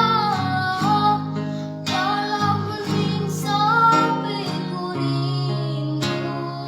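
A woman singing to acoustic guitar accompaniment. The voice drops out about two-thirds of the way in, leaving the guitar playing on.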